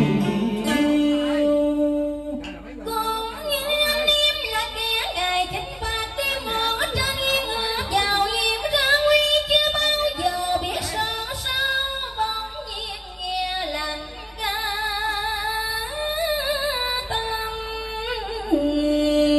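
Vietnamese cải lương music: a female voice sings a long melody with a strong vibrato over instrumental accompaniment.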